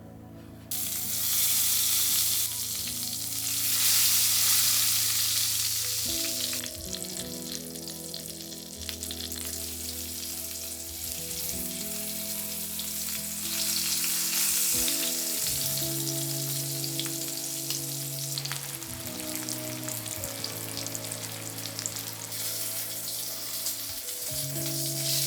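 Food sizzling in hot oil in a pan. The sizzle starts suddenly about a second in and is loudest for the first few seconds, then settles to a steady sizzle. Soft background music with sustained tones plays underneath.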